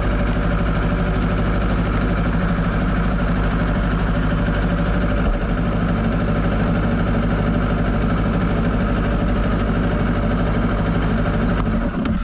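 Honda CBR250RR motorcycle engine running steadily through its stock exhaust at a constant speed, then dropping away just before the end.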